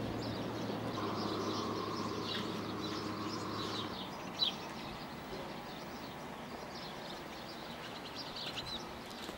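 Small birds chirping in short, scattered calls over a steady low hum that stops about four seconds in, with a single click soon after.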